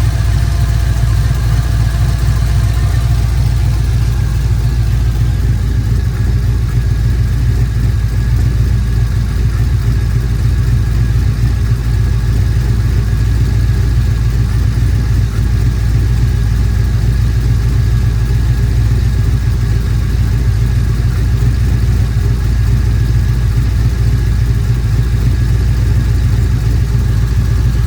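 2000 Camaro's LS1 V8 idling steadily, run on thicker oil to ease heavy blow-by from worn piston rings; the owner suspects a misfiring cylinder.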